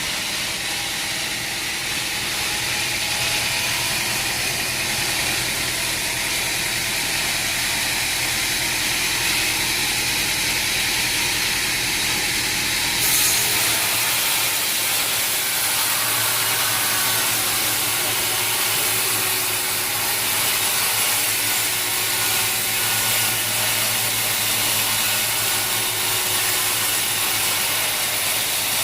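Sawmill machinery running steadily: a constant hiss over a low hum, changing abruptly about thirteen seconds in.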